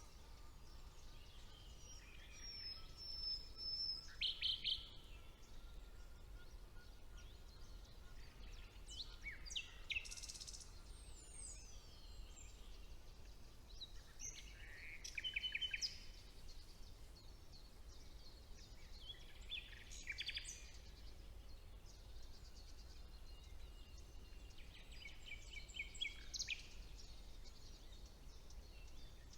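Several songbirds singing in a spring woodland: short phrases of repeated notes, trills and downward whistles come every few seconds over a faint steady low rumble.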